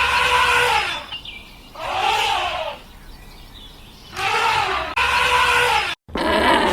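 An animal giving a series of high squealing calls, each under a second and rising then falling in pitch, four in all, with abrupt cuts between clips.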